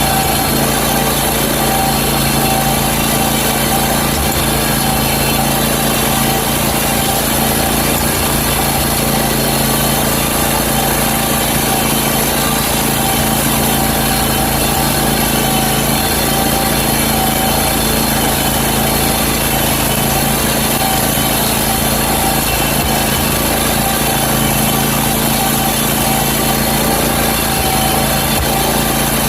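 Country Clipper zero-turn mower's engine running at a steady speed.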